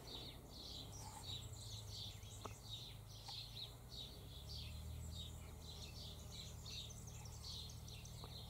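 Faint, continuous chirping of small birds, many short high calls a few times a second, over a steady low hum.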